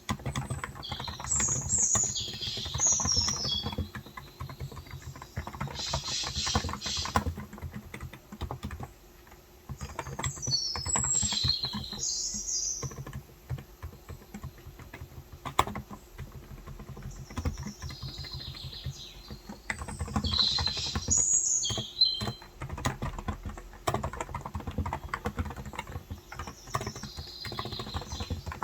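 Fast typing on a Cox Endeavor electrostatic-capacitive tenkeyless keyboard with 35 g keys, in quick runs of keystrokes with a few short pauses. Birds chirp in short bursts about four times over it.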